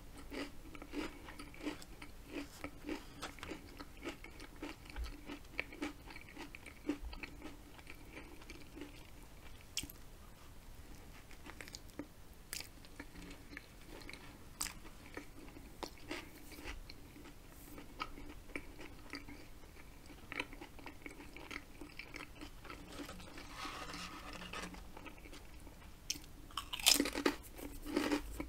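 Close-miked eating sounds of potato chips and a sandwich roll being chewed: a steady run of small crunches and wet mouth clicks. A louder burst of crunching comes near the end.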